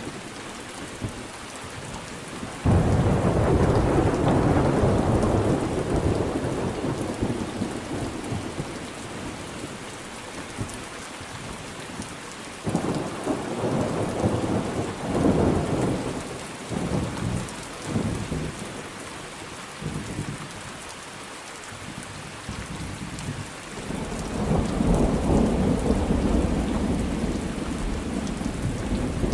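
Steady rain with thunder: a sudden loud thunderclap about three seconds in that rumbles away over several seconds, a broken rolling rumble a little before the middle, and thunder building again near the end.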